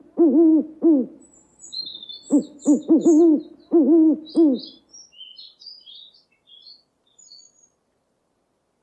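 Owl hooting in quick runs of short rising-and-falling hoots, three runs over the first five seconds. A small bird's faint high chirps sound over and after them.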